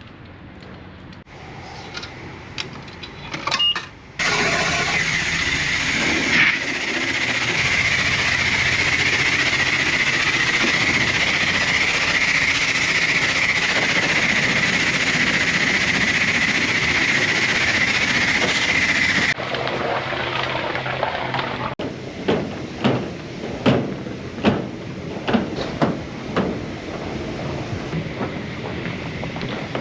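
High-pressure car-wash spray wand spraying down a truck: a loud, steady hiss starts suddenly about four seconds in and cuts off about fifteen seconds later. After that comes quieter spraying with a run of short, louder bursts.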